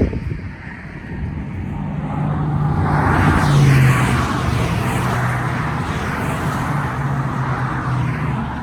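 A motor vehicle passing, its steady low engine hum and road noise swelling to a peak about three to four seconds in, then slowly fading.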